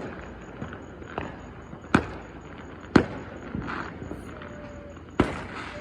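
Fireworks going off at a distance: a series of sharp bangs, the three biggest about a second apart and then one louder bang a couple of seconds later, with fainter pops and some crackle in between.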